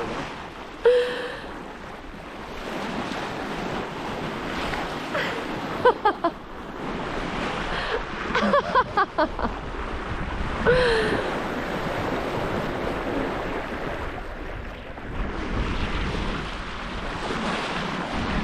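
Water rushing along a sailboat's hull, with wind buffeting the microphone. Several short, bending, pitched calls or squeaks come through it about a second in, around six, nine and eleven seconds.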